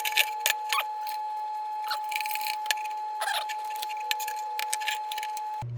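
Light metal clicks, taps and rattles from a rusty tin lantern part being handled and shaken, with something loose rattling inside it that the restorer takes for a hunk of rust. A steady high tone runs underneath.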